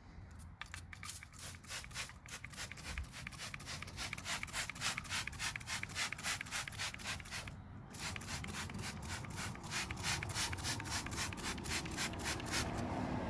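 Trigger spray bottle of heavy-duty wheel cleaner being pumped in quick repeated spritzes, about four a second, onto a car wheel, with a short pause a little past halfway.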